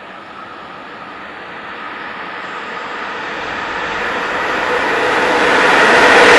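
Electric locomotive hauling a freight train approaching along the track. Its running noise and a steady hum with a few held tones grow steadily louder as it nears.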